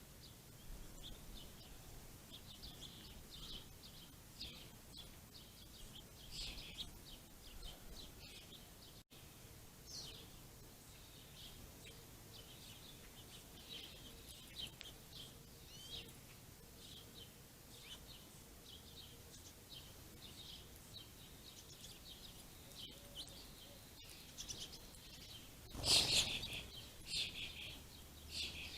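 Small songbirds at a ground feeding spot, chirping and twittering in many short, high calls throughout. Near the end there is one brief, louder rushing burst.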